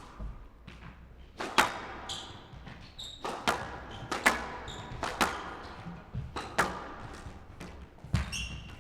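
Squash rally: the ball cracks off rackets and the court walls about once a second, with short high squeaks from players' shoes on the court floor.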